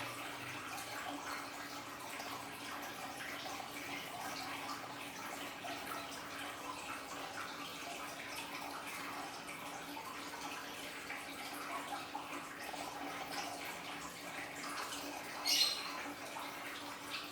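Water from a small aquarium waterfall trickling and splashing steadily, with small drips and a faint steady low hum underneath. There is a brief louder splash about fifteen seconds in.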